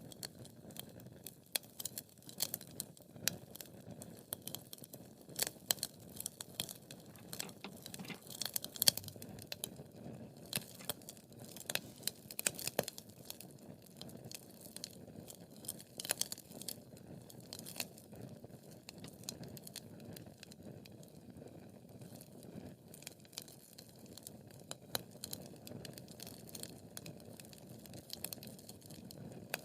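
Wood fire crackling in a fireplace: irregular sharp snaps and pops, often several a second, over a low steady rush of burning, with the loudest pop about nine seconds in.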